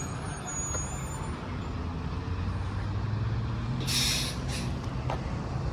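Road traffic with a heavy vehicle's engine giving a steady low hum, and a short sharp hiss of air about four seconds in, with a fainter one right after.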